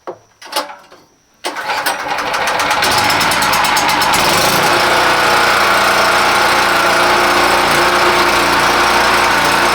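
Portable gasoline generator starting on choke: after a brief noise of the start attempt, the engine catches about a second and a half in, picks up speed and settles into steady running.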